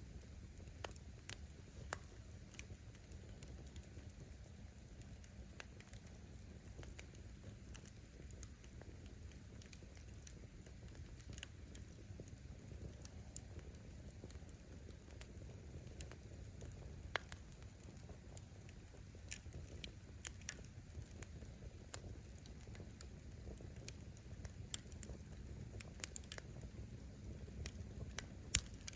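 Wood bonfire burning: scattered sharp pops and snaps of firewood crackling at irregular intervals over a low, steady rumble of the flames.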